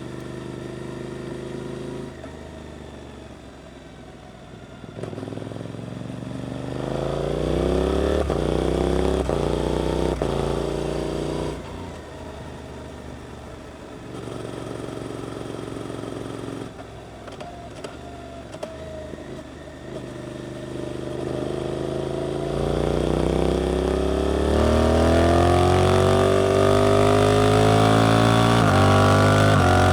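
Suzuki GSX-8S parallel-twin engine through an Arrows aftermarket exhaust, accelerating with the revs climbing from about five seconds in. It backs off the throttle before the middle and runs quieter at low revs for several seconds. It then accelerates again, rising steadily and loudest near the end.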